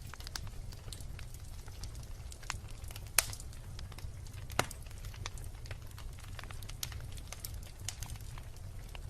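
Wood bonfire crackling, with frequent small snaps and two louder pops about three and four and a half seconds in, over a steady low rumble.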